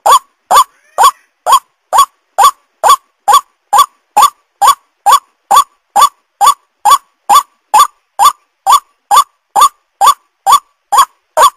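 White-breasted waterhen (ruak-ruak) call played as a bird lure: a loud, unbroken run of short notes, each sweeping upward, evenly spaced at about two a second.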